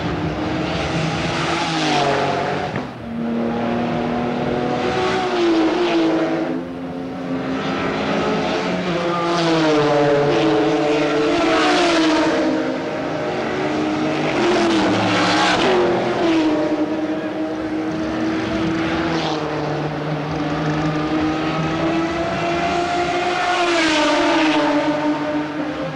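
GT race cars passing one after another at speed, their engines rising and falling in pitch through acceleration and gear changes, often with more than one car heard at once.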